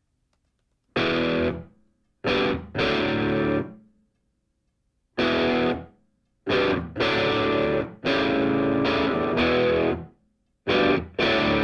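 Background music: distorted electric guitar chords played in short phrases, each starting sharply and broken off by full silences.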